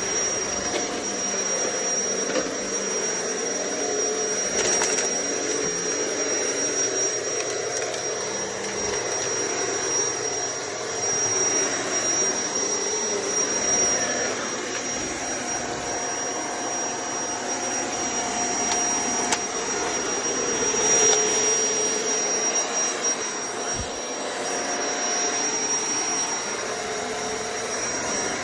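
Shark vacuum cleaner running steadily, a continuous motor rush with a thin high whine over it, rising and easing a little as it is pushed around.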